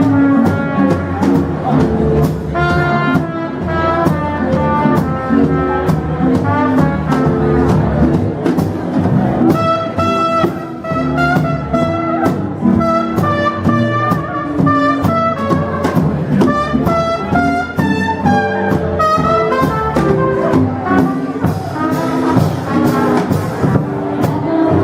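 Brass-led jazz music with trumpet and trombone over a steady beat.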